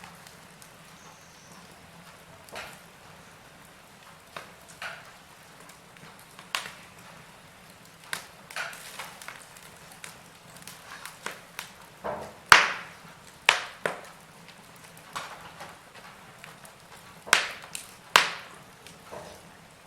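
Wood fire in a fireplace crackling, with irregular sharp pops over a low hiss; the loudest pop comes about twelve seconds in, with two more strong ones near the end.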